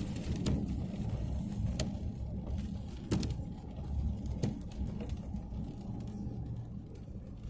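Car driving, heard from inside the cabin: a steady low road and engine rumble, with a few sharp clicks or knocks.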